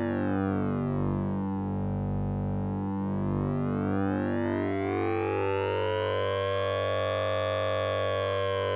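Synthesized sync-and-ring sound effect from the Orange Vocoder VST plug-in: a steady low drone under a dense stack of metallic overtones. The brightness of the overtones sweeps slowly down and back up over several seconds, like a slow siren.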